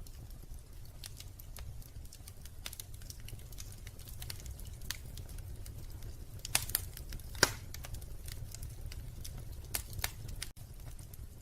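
Wood fire in a fireplace crackling: irregular sharp pops and snaps, two louder pops a little past the middle, over a low steady rumble.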